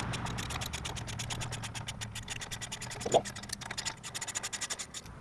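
Rapid, even clicking of a wrench backing out a loosened carburetor mounting bolt on a Briggs and Stratton engine, the clicks quickening past the middle, with one brief squeak a little after halfway.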